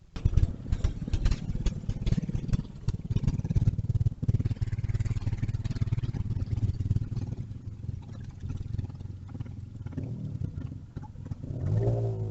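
Mini bike's small engine running, rough and crackly, cutting in abruptly. Music comes in near the end.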